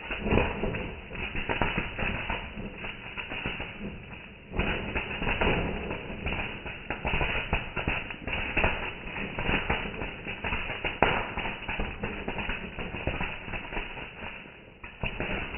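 Fireworks crackling with dense, rapid pops and bangs, growing suddenly louder about four and a half seconds in.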